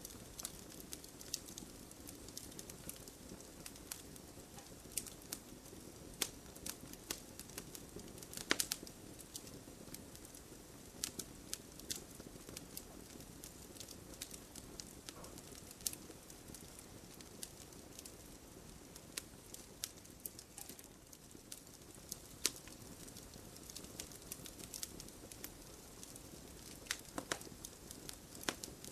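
Wood fire burning in a fireplace: a soft steady hiss with irregular crackles and sharp pops of burning logs, a louder pop about eight seconds in.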